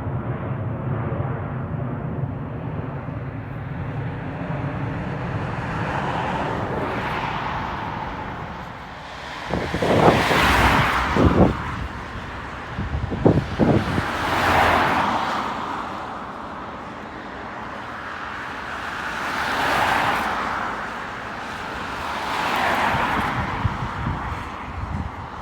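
Low jet-engine rumble fading away at the start, then several road vehicles passing one after another, each swelling and dying away over a few seconds. There are a few low buffets of wind on the microphone about ten and thirteen seconds in.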